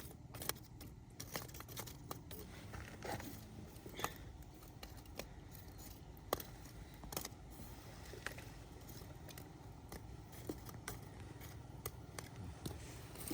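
Faint, irregular clicks and light taps, a few a second at most, over a low steady hum.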